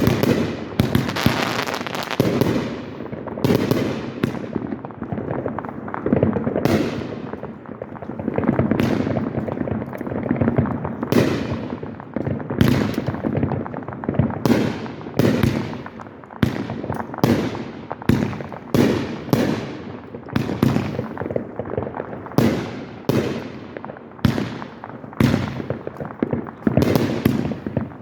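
Aerial fireworks going off in quick succession, one sharp bang after another, several a second, each with a rumbling echo that runs into the next.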